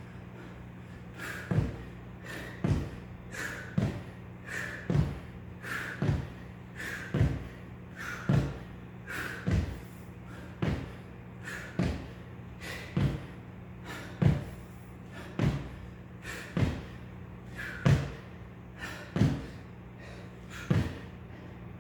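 A person exercising with about 4 kg of weight strapped on: a steady run of thuds, about one a second, each with a short hard breath, over a steady low hum.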